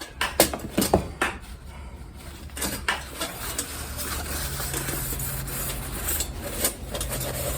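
Light metallic clinks and knocks as the parts of a kerosene heater are handled and wiped down, with a rag rustling between them.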